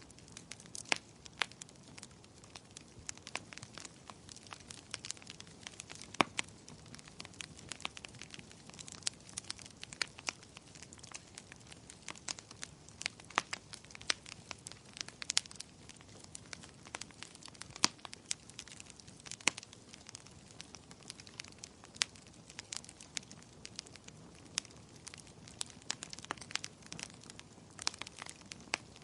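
Wood fire burning in a fireplace, crackling with many irregular sharp pops and snaps over a soft low hiss.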